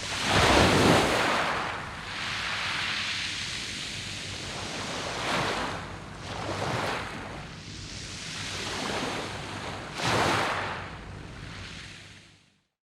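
Sea waves breaking and washing over a pebble beach, in about four surges of hissing surf. The sound fades out to silence just before the end.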